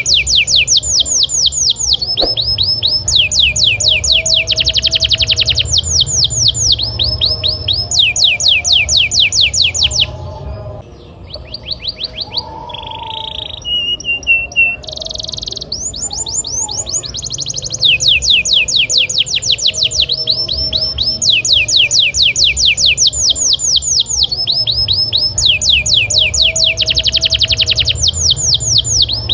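Domestic canary singing continuously in long rolls: fast trills of rapidly repeated downward-sweeping notes, switching to a new trill every second or two. A softer stretch of varied notes and a short held whistle comes about halfway through, before the loud rolls resume. A low hum runs underneath.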